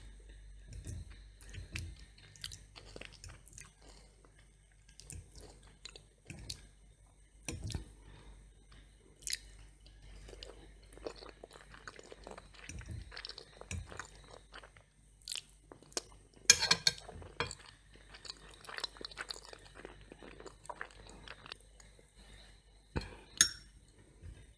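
Close-miked eating of macaroni and cheese with crunchy toast: steady chewing with many small mouth clicks. There is a loud, crackling crunch about two-thirds of the way through and another sharp crunch near the end.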